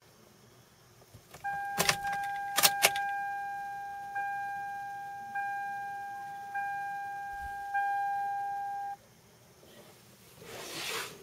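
2000 Toyota Celica GT-S's key-in-ignition warning chime, ringing about once a second and stopping suddenly about nine seconds in. Sharp jangling clicks come early in the chime, as the keys go into the ignition. A short rushing noise follows near the end, just before the engine is cranked.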